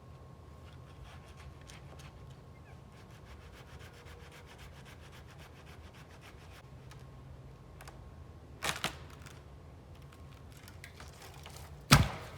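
A run of faint quick clicks, then a double knock about nine seconds in and one loud sharp knock near the end.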